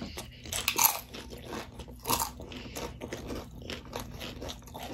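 Loaded nachos being bitten and chewed: crisp tortilla chips crunching in irregular bites, with the loudest crunches a little under a second in and again just after two seconds.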